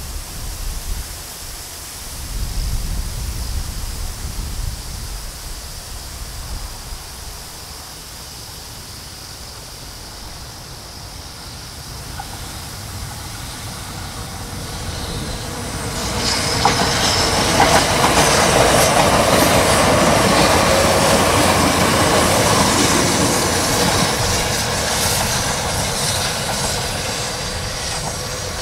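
JR East E491 series 'East i-E' three-car electric inspection train approaching and passing, its wheels clicking over the rail joints. The sound builds from about halfway in, is loudest for several seconds as the cars go by, then fades as the train moves away.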